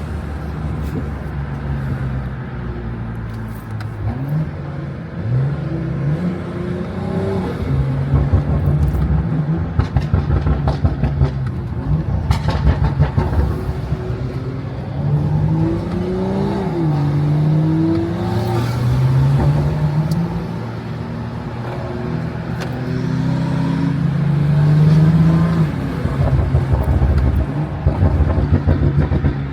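BMW M340i's turbocharged inline-six being driven, its revs rising and falling several times through acceleration and gear changes, with patches of rapid crackling around a third of the way in and again near the end.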